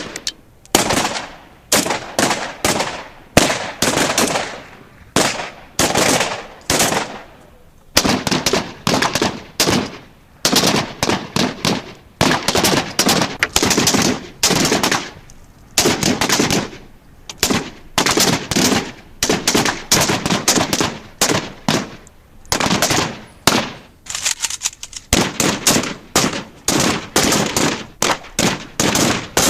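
Military gunfire: rapid bursts of automatic fire mixed with single shots, broken by short pauses, each burst trailing off in a brief echo.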